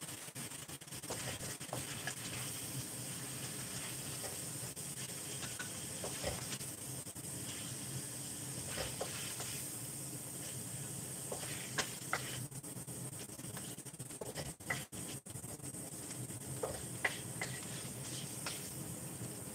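Chopped garlic and onion sizzling in hot oil in a stainless steel wok, a steady hiss, with a wooden spatula now and then scraping and tapping the pan in short clicks.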